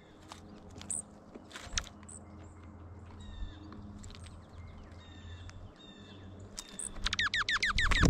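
Songbirds at a peanut feeder: scattered sharp clicks of birds landing and pecking among the peanut shells, with short high bird calls. Near the end comes the loudest sound, a rapid run of falling whistled notes, about eight a second, over a faint steady low hum.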